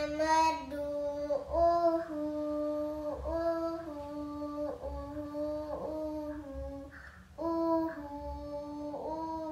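A young girl singing unaccompanied, a string of short held notes that imitate an owl's hooting call ('kukuk kukuk') in a children's song.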